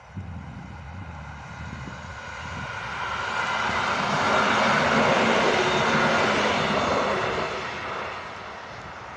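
EN57AL electric multiple unit passing close by on the rails. Its wheel and running noise swells as it goes past, loudest from about four to seven seconds in, then fades as it pulls away.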